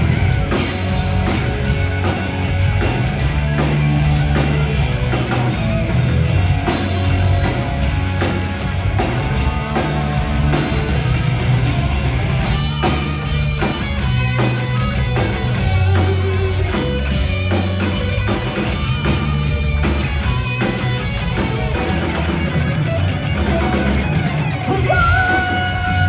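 Heavy metal band playing live: distorted electric guitars, bass and a drum kit at full volume. Near the end a guitar holds a long wavering high note.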